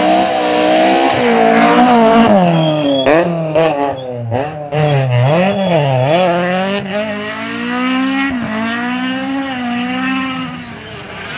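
Rally car engine revving hard and changing pitch as it climbs through gears and lifts off. Around the middle there is a run of sharp cracks and quick up-and-down revs.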